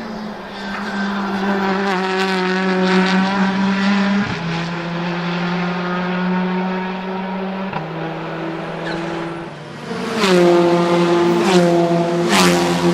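A car engine running hard, its note holding steady and then dropping in pitch in two steps, about four and eight seconds in. Near ten seconds in it gets louder, with sharp revving sweeps and cracks from the exhaust.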